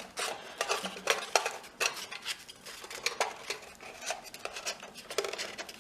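Irregular clinks, knocks and scraping as cardboard and a piece of wood are stuffed and pushed into a small thin sheet-metal box.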